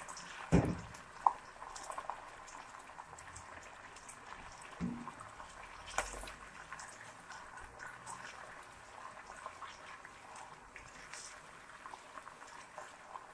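Sliced mushrooms and chopped onion sizzling and bubbling in hot oil in a steel pot, a steady hiss full of small crackles. A silicone spatula stirring them knocks against the pot a few times.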